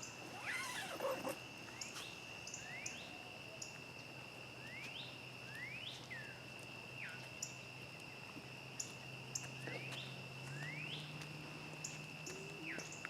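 Crickets trilling steadily in the night, with repeated short rising chirps from another night creature and a scatter of sharp pops from a crackling campfire. A brief rustle about a second in, and a faint low hum that steps up in pitch near the end.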